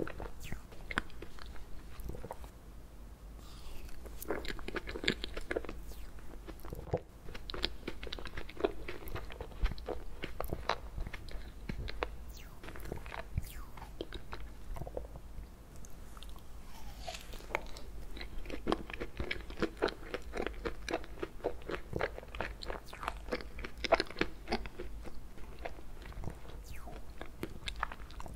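Close-miked eating of ice cream cake: bites, wet chewing and sticky mouth clicks with some crunch, coming in bouts of a few seconds with short quieter pauses between them.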